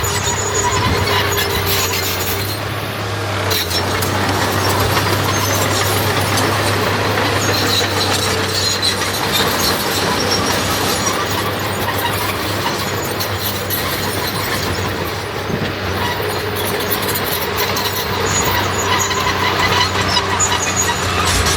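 Heavy diesel earthmoving machinery running steadily under load, a constant low engine hum with mechanical clatter, and high thin squeals coming and going.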